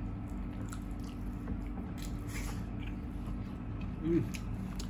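A person chewing and biting food, with scattered small wet clicks and smacks of the mouth over a steady low hum. There is a brief voiced sound about four seconds in.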